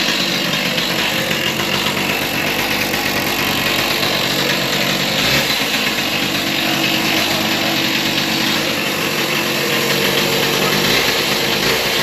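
A small engine running steadily, most likely the gas concrete saw used to cut up the floor.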